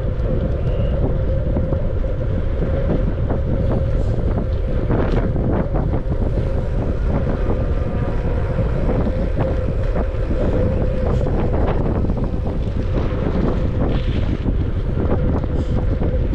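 Wind buffeting the microphone of a camera on a moving bicycle, a steady loud rush, with a steady hum underneath and scattered small clicks and rattles.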